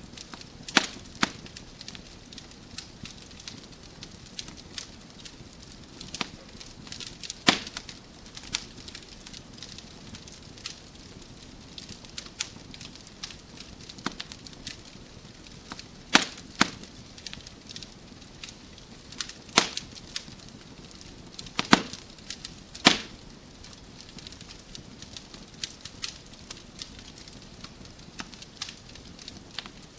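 Wood fire crackling in a fireplace: a steady soft hiss under frequent small snaps, with a handful of sharper, louder pops scattered through, the loudest about three-quarters of the way in.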